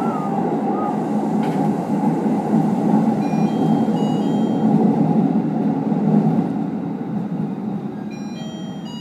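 JR 811 series electric train running, heard from inside the driver's cab as it pulls out along the platform: a steady dense rumble that eases off after about six and a half seconds, with a few faint short high tones above it.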